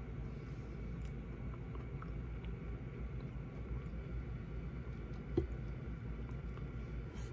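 Faint chewing over a steady low background rumble, with one sharp knock about five seconds in as a hand reaches across to the plate of cucumber slices and biscuits.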